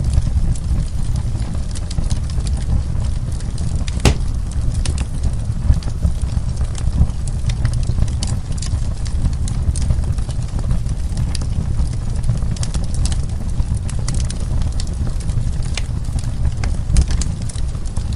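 Wood fire burning in a fireplace: a steady low rumble with many sharp crackles and pops, one louder pop about four seconds in.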